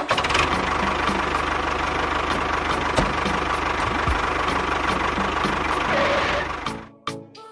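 A small motor running steadily with a fast, even pulsing, then stopping about seven seconds in.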